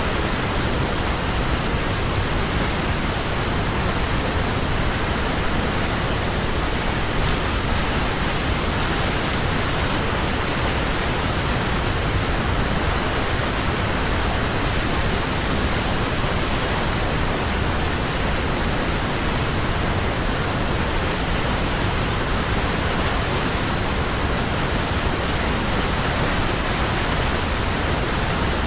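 Waterfall: water falling in a steady, even rush with no breaks or changes.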